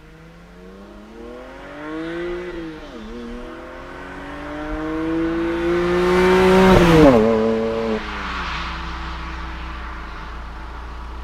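BMW 330i's N52 straight-six with a sport exhaust and straight-piped midpipe accelerating hard toward the microphone, with one gear change about three seconds in. It climbs again to its loudest as it passes, about seven seconds in, then its pitch drops away.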